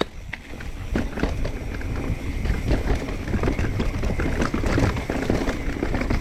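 Mountain bike landing a drop with a thump, then rolling fast over rough dirt and rock: steady tyre noise and wind rumble with many small knocks and rattles from the bike.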